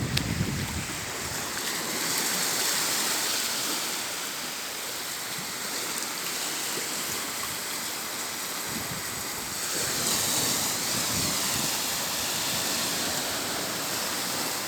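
Sea surf washing on a beach in strong wind: a steady rushing hiss that swells a little now and then.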